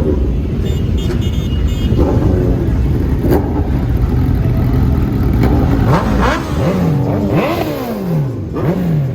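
Several sport-bike engines running and being revved over a heavy low rumble. In the second half the pitch of several bikes rises and falls again and again, overlapping.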